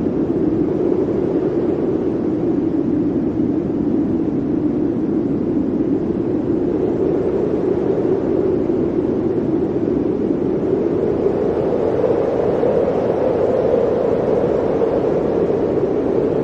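Blizzard wind blowing steadily, its low howl sinking in pitch over the first few seconds and rising again toward the end.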